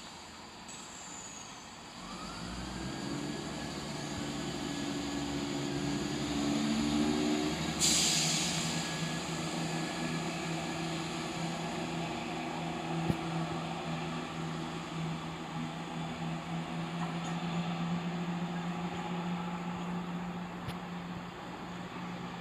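Diesel train engine that starts up louder about two seconds in and then runs steadily, with a faint rising whine as it picks up. A short, sharp hiss of air, typical of air brakes releasing, comes about eight seconds in.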